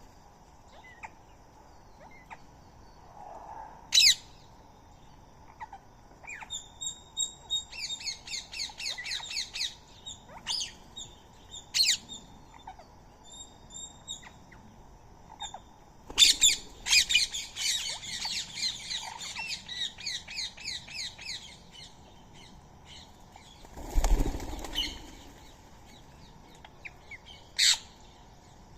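Birds chattering in quick runs of high, repeated calls, with sharp single calls in between. A brief flurry of wing flaps comes about four-fifths of the way through.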